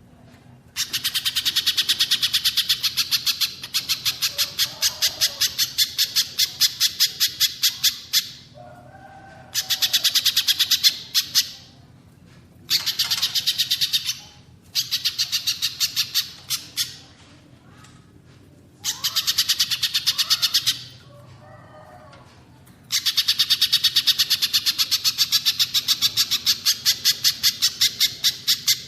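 Calls of a pijantung pisang (spiderhunter) and a cililin used as a songbird tutor recording. Several long runs of sharp, high repeated notes come about five a second, each run stopping suddenly, with softer, lower call phrases in the gaps between them.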